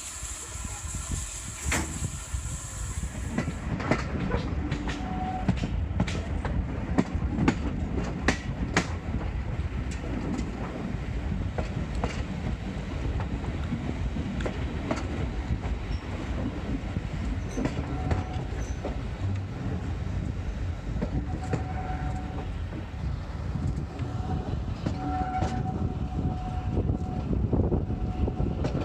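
Train hauled by a Hunslet Austerity 0-6-0 saddle-tank steam locomotive, running steadily. A continuous low rumble is broken by irregular sharp clicks of wheels over the rails. A high hiss stops about three seconds in.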